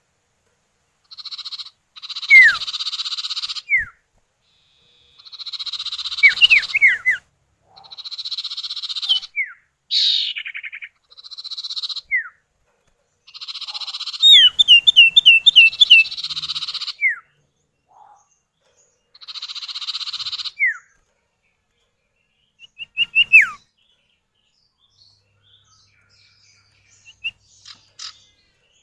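Common iora (sirtu or cipoh) male and female calling back and forth: harsh buzzing churrs a second or two long, answered by sharp downslurred whistles. About halfway through comes a quick run of repeated falling notes.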